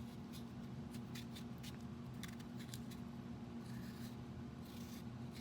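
A blade scraping and cutting at a chocho (chayote), in short irregular strokes. A steady low electrical hum runs under it.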